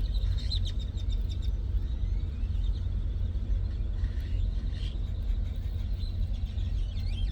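Chatter of a large flock of birds, heard from inside a parked campervan as faint scattered chirps over a steady low rumble.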